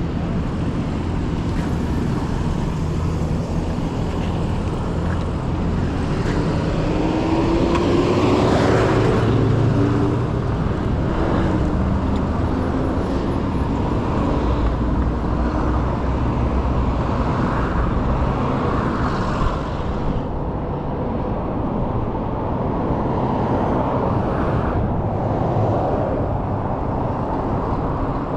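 Road traffic passing on a city street, heard from a moving e-bike over a steady low rumble. About eight seconds in, a vehicle passes close, the loudest moment, with its engine tone falling as it goes by.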